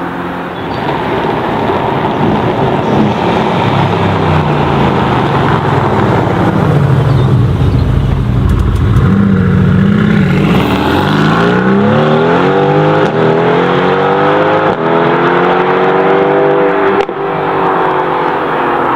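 High-performance sports car engine accelerating hard: the note wavers at first, then climbs steadily in pitch through several gears, dropping briefly at each upshift.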